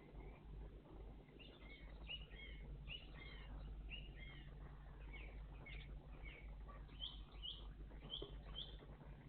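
A songbird singing a faint run of short, sweeping notes, about two a second, starting about a second in and stopping near the end, over a steady low hum.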